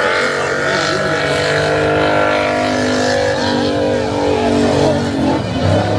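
Car engine running at high, fairly steady revs, its pitch rising and falling slightly over the few seconds.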